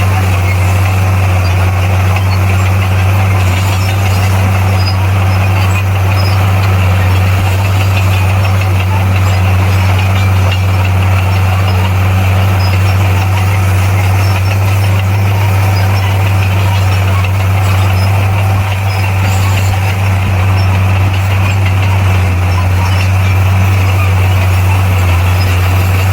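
Heavy diesel engine of earthmoving equipment running steadily, with a strong, unchanging low hum and no change in pace.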